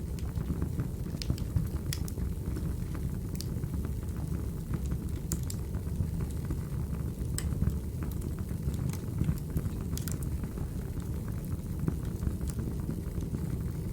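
Crackling wood fire: a steady low rumble of burning logs with irregular sharp pops and snaps, played as a background ambience track.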